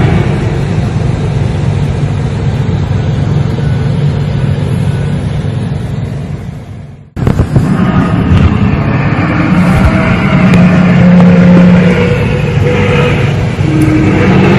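Loud low droning rumble with steady humming tones over it, of the kind passed around as mysterious 'strange sounds'. It fades out about seven seconds in, and a similar drone starts abruptly right after.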